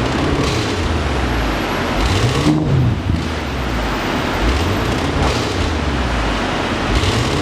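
Audi S8 D4's twin-turbo V8 through an aftermarket dual valved exhaust, revving up and dropping back again and again, about once every two seconds, with a loud rasp over the engine note.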